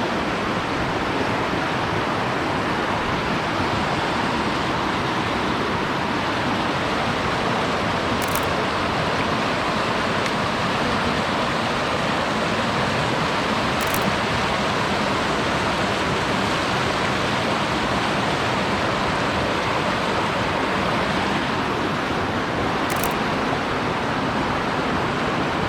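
Steady, loud rush of falling water, with three faint short clicks spread through it.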